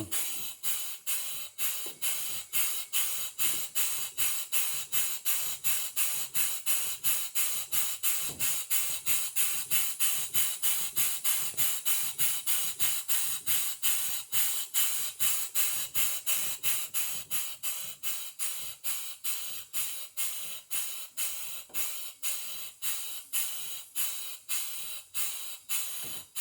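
A 1/2 hp G. Sipp steam engine running, its exhaust chuffing in an even rhythm of about two to three hissing beats a second, the beats spacing out a little later on as it is slowed down. The engine is being run in after new parts were fitted.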